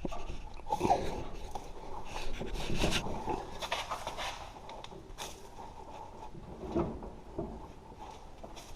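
Irregular metallic clicks, scrapes and knocks of a snowblower's PTO driveshaft coupler being worked by hand onto the tractor's rear PTO splines. The coupler is stiff, which the owner puts down to it needing grease.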